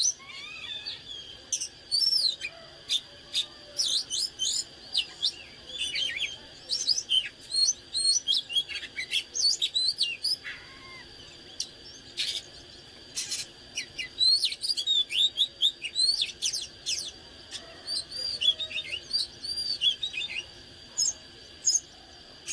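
Oriental magpie-robin singing: a rapid, varied run of sweet whistled phrases and chirps with short pauses, plus a couple of harsh notes around the middle. A faint steady high-pitched tone runs underneath.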